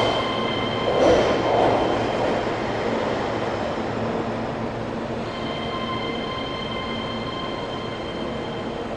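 Keihan electric train running along the station platform: a steady rumble with high whining tones that drop out for a few seconds in the middle, the whole sound slowly fading.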